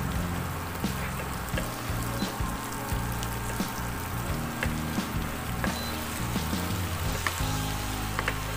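Boiled potatoes and peas sizzling in oil in a kadhai, with scattered crackles and the scrape of a wooden spatula stirring them, over background music.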